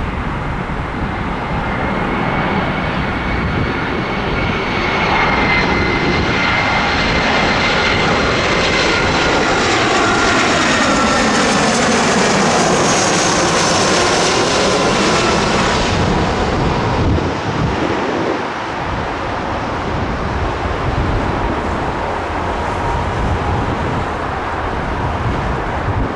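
An airliner's engines passing close by, building to a loud peak about halfway through and then fading. Their whining tones slide down in pitch as it goes by.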